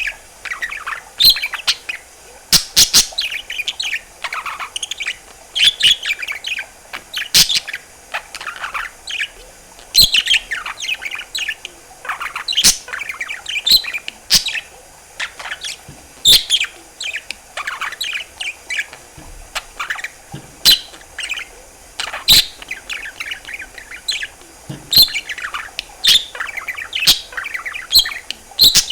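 Pet budgerigar chattering and warbling: rapid squeaky twittering in short phrases, broken by sharp clicks and pops.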